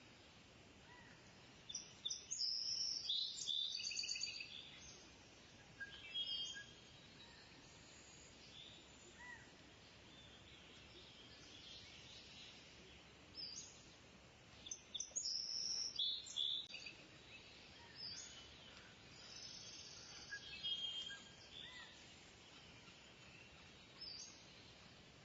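Birds chirping in short high-pitched bursts every few seconds over a steady faint background hiss.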